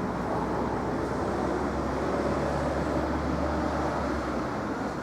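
Manyosen tram running, a steady rumble with a low hum that drops away a little before the end.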